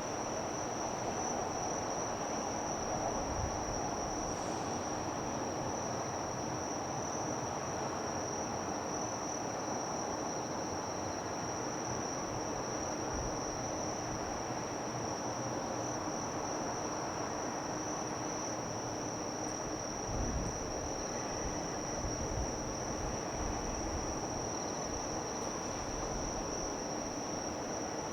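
Insects trilling in a steady, unbroken high shrill tone over a low wash of harbour and city noise, with a few brief low thumps about two-thirds of the way through.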